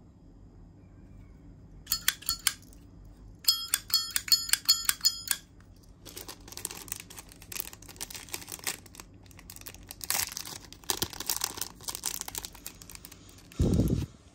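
Nickel-finish Zippo lighter's hinged lid being flicked open and snapped shut: sharp metallic clicks with a bright ringing chime, a short run about two seconds in and a longer quick run from about three and a half to five seconds. Then the lighter is handled with a crackly rustle, and a dull thump comes near the end.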